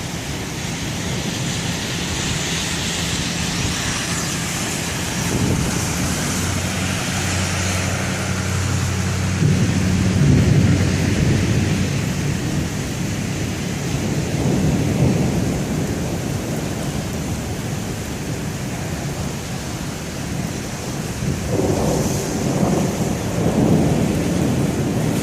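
Heavy rain falling steadily with long low rumbles of rolling thunder from a severe thunderstorm, swelling about ten seconds in and again near the end.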